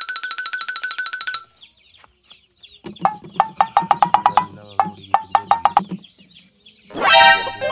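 Chicken clucking in rapid runs, mixed with cartoon sound effects: a fast, even electronic rattle for the first second and a half, and a loud sudden effect near the end.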